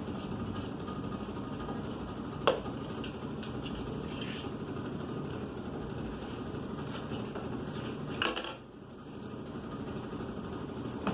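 Hard metal clinks over a steady hum: one sharp clink about two and a half seconds in and a short clatter near eight seconds, after which the hum briefly drops.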